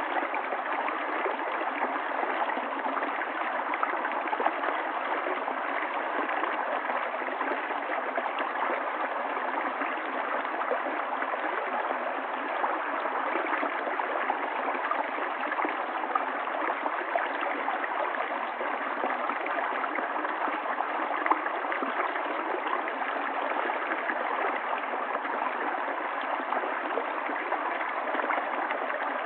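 A river running over stones: steady rushing and gurgling of flowing water with no breaks.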